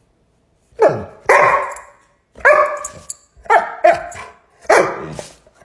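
A dog barking, about six barks in uneven bursts that start about a second in.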